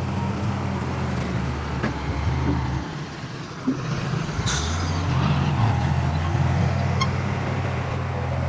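Heavy diesel engine of earthmoving machinery running, easing off about three seconds in and picking up again soon after. A short hiss of air about halfway through, and a couple of light metallic clinks.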